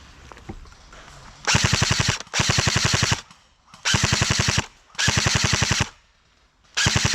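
Airsoft electric rifle firing full-auto in short bursts of rapid clicking shots, each burst under a second long. There are four bursts from about a second and a half in, and a fifth starts right at the end.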